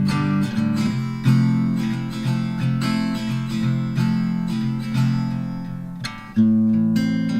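Background music of a strummed acoustic guitar playing chords, with a fresh loud strum about six seconds in after the sound fades.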